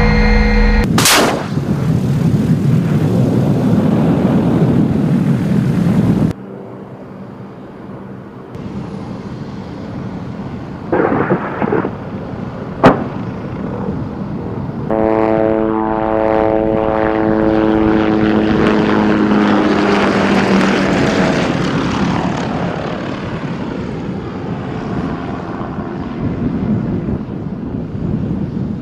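Military aircraft and weapons sounds in a series of cut clips: loud rushing engine noise, a couple of short bursts and one sharp shot about halfway, then an aircraft passing with its engine tone slowly dropping in pitch.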